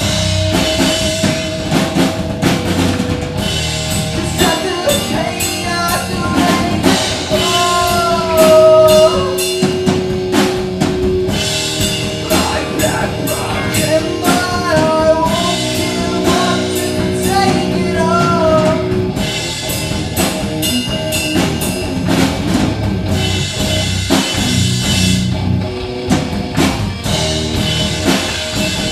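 Live rock band playing a song: a full drum kit keeps a steady beat under sustained amplified instruments, with a melody line bending over the top from about five seconds in until nearly twenty.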